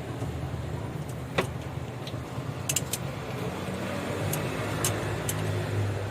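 An engine running steadily with a low hum, with a few short, light clicks scattered through it.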